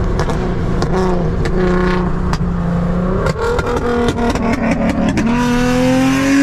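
Infiniti G37 sedan's muffler-deleted V6 engine, heard from inside the cabin. It holds a steady drone for about three seconds, then rises steadily in pitch as the car accelerates, with scattered sharp clicks and knocks over it.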